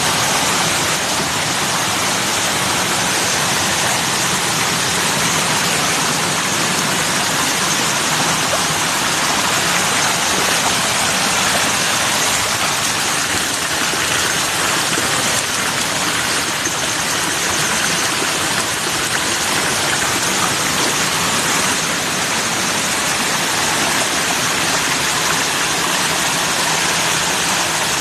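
Steady, unbroken rushing of water, an even hiss with no distinct drops or splashes.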